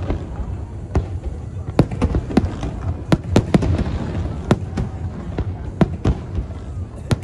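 Aerial firework shells bursting in an irregular string of sharp bangs, about two a second, over a continuous low rumble.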